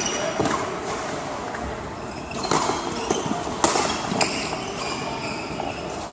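Badminton play in a large sports hall: rackets strike the shuttlecock with several sharp cracks, and shoes give short squeaks on the court floor over the echoing din of the hall.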